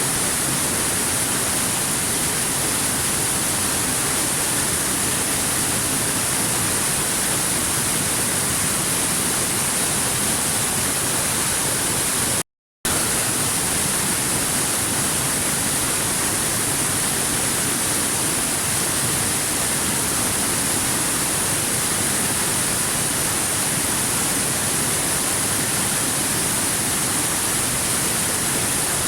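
Waterfall rushing in an even, unbroken hiss of falling water. It cuts out to silence for a split second about twelve seconds in, then resumes unchanged.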